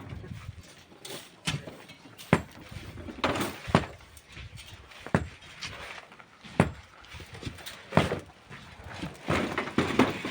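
Miners' hand tools knocking and scraping on sand and stone: a string of sharp, irregular strikes roughly every second, some followed by a short scrape, with a cluster of quicker knocks near the end.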